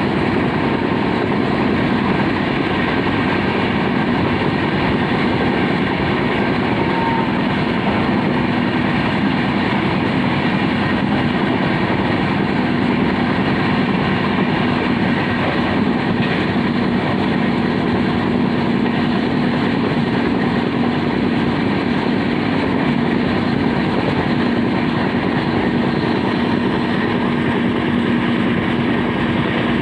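Indian Railways express train running at speed, heard from inside a coach by the window: a steady rolling rumble of wheels on rails with a low hum underneath.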